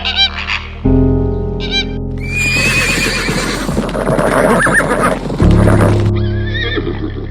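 A horse whinnying, a wavering, shaky call followed by a loud, noisy stretch, over background music.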